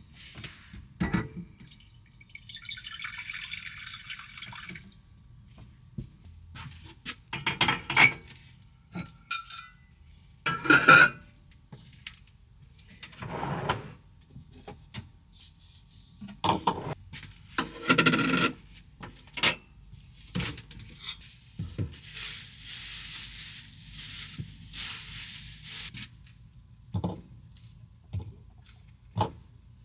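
Water pouring or running in two short spells amid repeated clinks and knocks of dishes and utensils in a small room.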